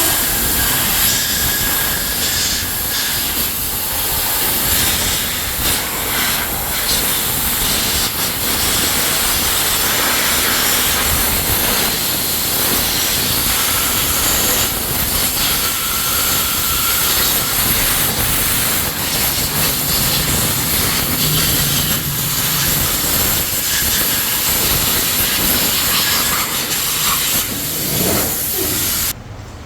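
Steady factory-floor machinery noise: an even hiss over a low hum, with no single machine standing out. It drops off suddenly near the end.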